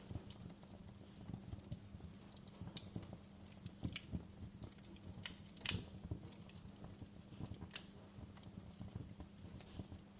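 Fire crackling in a fireplace: irregular pops and snaps at an uneven rate, with one sharper pop a little past halfway.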